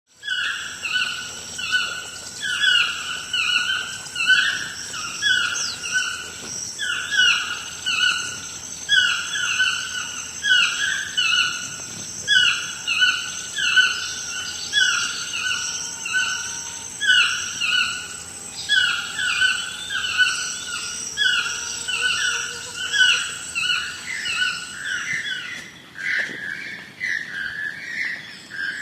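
Yellow-throated toucan giving its yelping call over and over, about once a second, each note sliding down in pitch. A steady high insect drone runs underneath and cuts off near the end.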